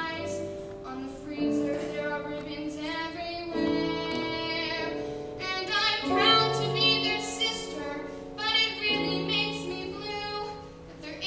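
A young girl singing a musical theatre song live, holding notes with vibrato over musical accompaniment.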